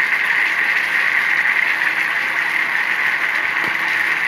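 Ginger spice paste sizzling in hot mustard oil in a small saucepan, a steady hiss, with a few faint scrapes of a steel spoon stirring it near the end.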